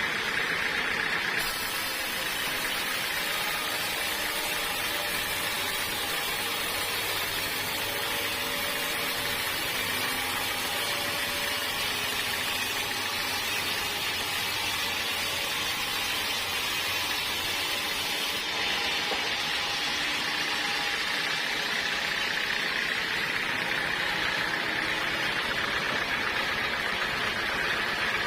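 Sawmill machinery running steadily, a continuous mechanical noise that changes character slightly partway through.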